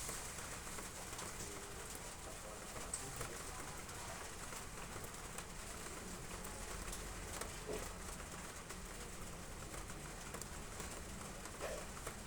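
Heavy rain falling on roof tiles: a steady patter of many drops.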